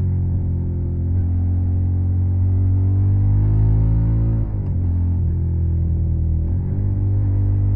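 Suzuki SV650's 90-degree V-twin running through a Yoshimura Alpha carbon exhaust under way, its pitch climbing slowly as it pulls. The pitch dips sharply and recovers twice, about halfway through and again near the end.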